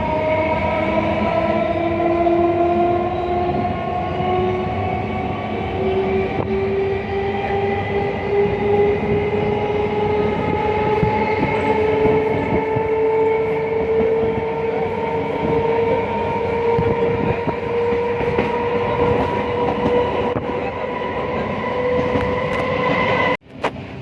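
Passenger train running on the rails, with a steady rumble and a whine that rises slowly in pitch as the train picks up speed. The sound cuts off abruptly near the end.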